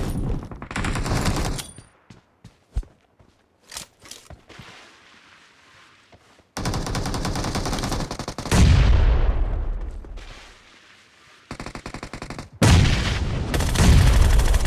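Video-game automatic gunfire: a short burst at the start, then two long bursts of rapid fire beginning about six and a half and twelve and a half seconds in, each with a heavy booming low end.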